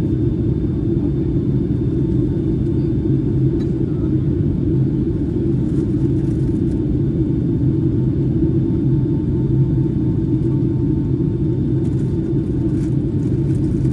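Steady low drone of engine and airflow noise heard inside the cabin of a Boeing 757-300 airliner in flight, with faint steady whines above it.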